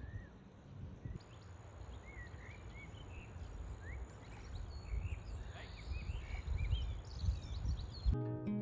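Small birds chirping in short, scattered calls over a low, uneven rumble. Music cuts in abruptly near the end.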